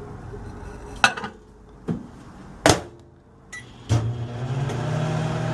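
Microwave oven being started: a few sharp clicks of the door and buttons with a short beep, then from about four seconds in the oven runs with a steady hum, set to 50% power for a one-minute egg cook.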